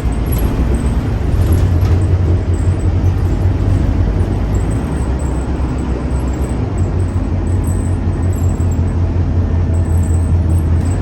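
Scania K310UA bus engine running with a steady low drone over road and mechanical noise. The drone swells about a second in and again near the end.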